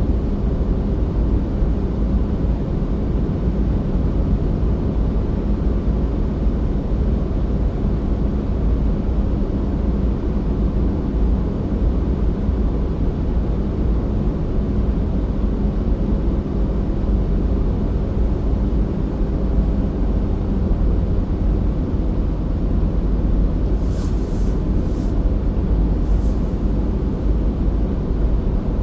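A car driving: steady low rumble of engine and road noise. A few faint high clicks come near the end.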